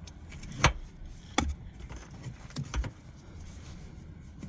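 Handling noise while working under a truck: four short, sharp clicks and knocks, two of them close together near the middle, over a faint steady hiss.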